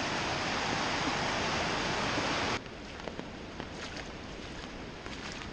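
Floodwater in a swollen creek rushing steadily. About two and a half seconds in, the sound drops abruptly to a quieter, thinner rush with faint scattered ticks.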